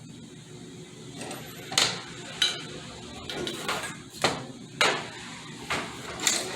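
Loose metal transmission parts being handled and rummaged through: about five sharp metallic clinks and knocks, with quieter scraping and handling noise between them.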